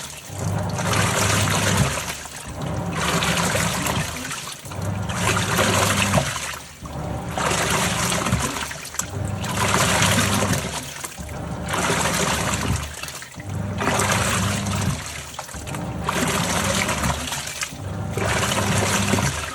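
Top-loading washing machine agitating a load: its motor hums and the water churns in even strokes of about two seconds, with a brief pause between each.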